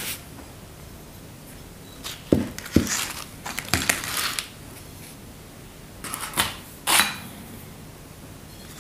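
Small metal parts and tools being handled on a workbench: a few short clicks and knocks with rustling between, in two clusters, the second ending about seven seconds in.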